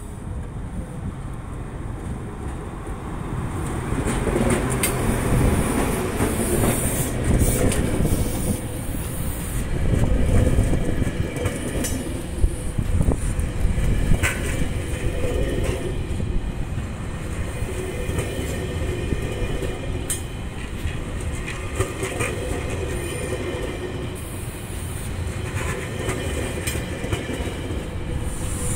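Diesel-hauled passenger train rolling past close by over a level crossing: a steady heavy rumble that grows louder as the lead unit passes, then the carriages' wheels clatter over the crossing rails with scattered sharp clicks.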